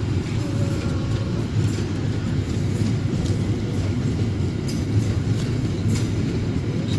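Wagons of a cement freight train rolling past with a steady low rumble of wheels on rail. A few short sharp clicks come near the end.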